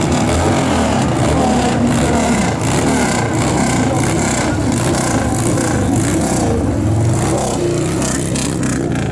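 Motor vehicle engine noise, loud and steady.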